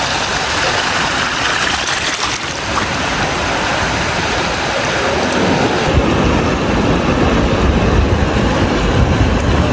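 Steady rushing of waves on a beach, with a deeper low rumble joining about six seconds in.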